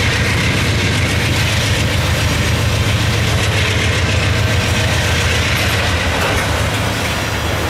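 Loaded coal hopper cars of a freight train rolling past, a loud steady rumble of steel wheels on rail with faint clicking from the wheels.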